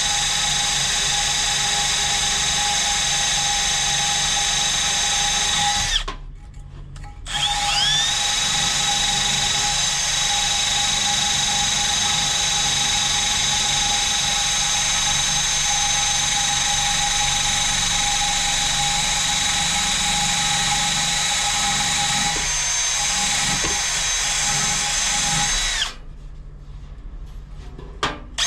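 A small high-speed electric motor runs steadily with a high whine. It stops briefly about six seconds in, spins back up with a quick rising whine, and stops again a couple of seconds before the end.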